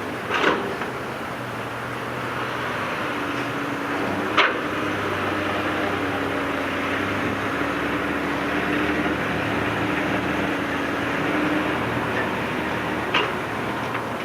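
Heavy diesel earthmoving machinery running steadily, with a held whine through the middle and three sharp metallic knocks: about half a second in, near the middle, and near the end.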